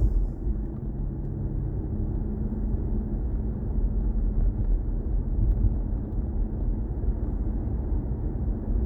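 Steady low road and tyre rumble of a moving BMW i4 M50, an all-electric car, so there is no engine note, only rolling noise with a faint steady hum.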